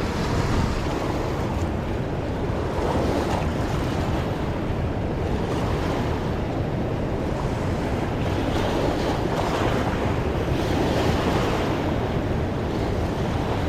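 Fast, swollen river rushing steadily, an even wash of fast-moving water.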